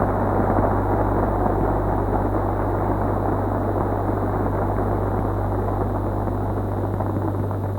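Crowd cheering and applauding, a dense steady noise that eases off slightly near the end, over the steady mains hum of an old recording.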